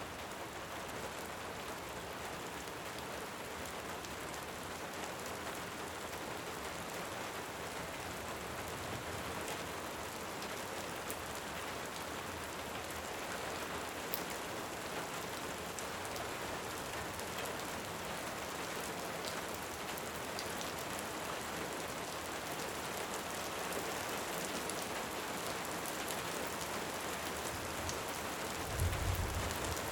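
Steady heavy rain, with scattered small clicks and crackles through it. Near the end comes one short low rumble of distant thunder.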